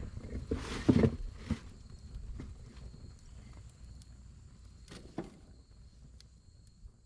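Wood campfire crackling, with scattered sharp pops, the loudest cluster about a second in, over a low steady rumble; the sound fades gradually toward the end.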